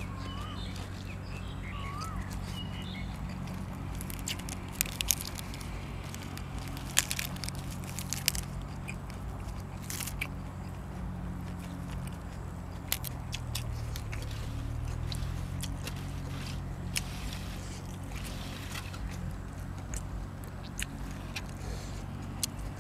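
Someone chewing and biting food, with sharp crunchy bites scattered through, loudest around the middle, over a steady low hum.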